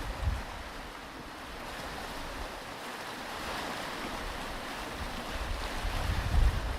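Surf washing on a beach, the hiss of the water swelling around the middle. Low wind buffets the microphone briefly at the start and again near the end.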